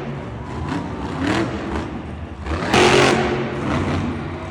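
Monster truck's supercharged V8 engine revving, with repeated surges of throttle, the loudest about three seconds in.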